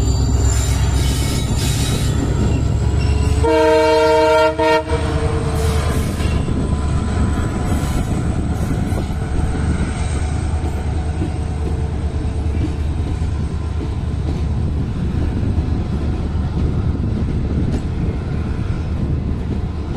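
Passenger coaches of an express train rolling past as it pulls out, hauled by a WDG4 diesel locomotive (EMD 16-cylinder two-stroke) whose deep engine rumble fills the first few seconds. The locomotive's horn sounds once, about four seconds in, for roughly a second. After that comes steady wheel-on-rail rolling noise, with a thin high wheel squeal through the first half.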